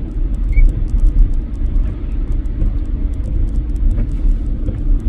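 Steady low rumble of a truck heard from inside its cabin, engine and road noise in deep snow.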